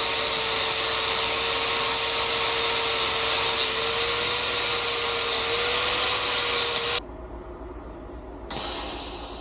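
Power grinder grinding fiberglass off a motorcycle seat: a steady rasping noise with a constant whine that cuts off abruptly about seven seconds in, leaving a quiet low hum.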